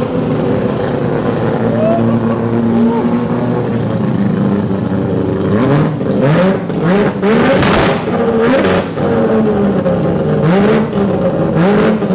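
Car engines revving, the pitch rising again and again as the throttle is blipped, with several loud noisy bursts from the second half on.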